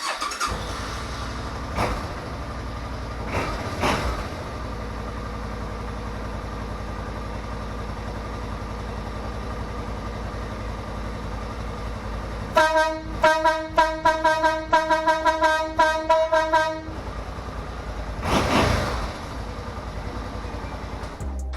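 Motohorn air horn fitted to a Suzuki C50 motorcycle, blown in a rapid series of about a dozen short blasts over roughly four seconds, starting about halfway through. It has a deep tone like a Mack truck or dump truck horn rather than a train horn. A steady mechanical running noise continues underneath throughout.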